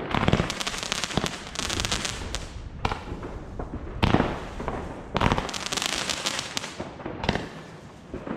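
Fireworks going off: sharp bangs over dense crackling that comes in waves, with the biggest bangs about three, four, five and seven seconds in.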